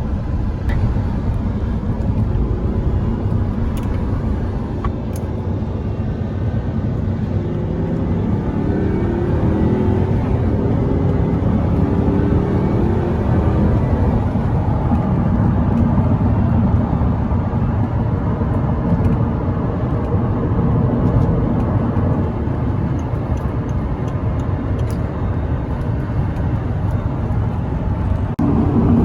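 Audi R8's naturally aspirated 4.2-litre V8 driven hard onto a highway in sport mode, with the louder sport-mode exhaust and road noise. The sound is dense and low-pitched and grows slightly louder over the stretch.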